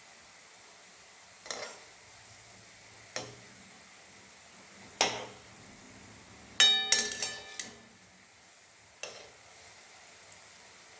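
Chhana balls for langcha deep-frying in oil with a faint steady sizzle, while a metal spoon is knocked and stirred against the pan: single clinks at intervals and a quick run of ringing clanks about seven seconds in.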